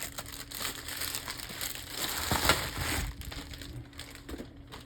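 Crinkly toy packaging being handled and opened, a rustling, crackling noise that gets louder for a moment about two to three seconds in.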